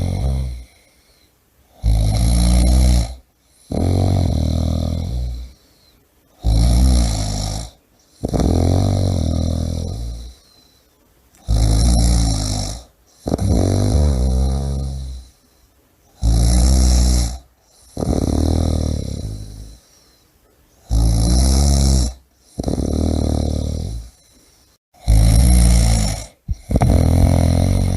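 A person snoring steadily, about one breath every five seconds. Each breath is a short, loud rattling snore followed by a longer, lower snore that fades out.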